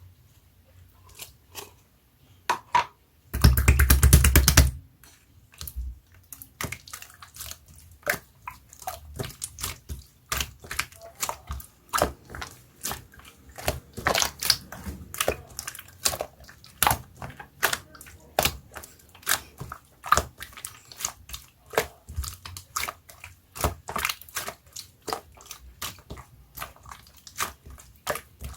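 Slime being squeezed and pressed by hand, giving many quick sticky clicks and small air-bubble pops at an uneven pace. A loud rustling burst lasts about a second near the start.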